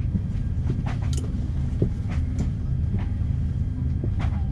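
Steady low rumble heard inside an Airbus A330-300 cabin as the airliner moves on the ground, with a few light clicks and rattles from the cabin.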